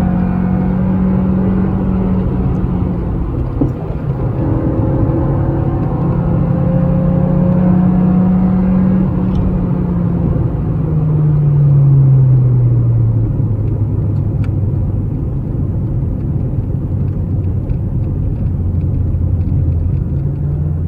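Car engine under hard driving on a steep uphill road: high revs with a brief dip about three and a half seconds in, climbing again, then the revs fall away over a few seconds and settle to a steady low note, with tyre and road noise throughout.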